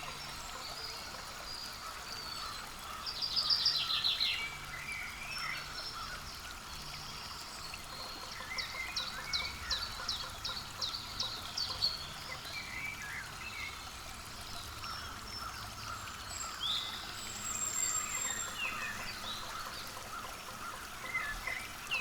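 Wild birds chirping and calling, with quick trilled runs of high notes a few times, over a steady hiss.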